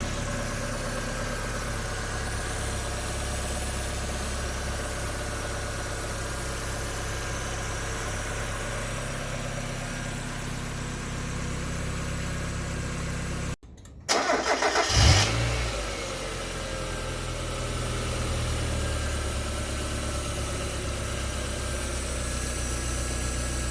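Mazda Miata NA8's 1.8-litre four-cylinder idling with a steady hiss from the passenger side of the engine bay. The hiss is not the alternator bearing, as it persists after the pulley stops, and is suspected to be a vacuum leak. About halfway through, the engine cuts out and is cranked and restarted.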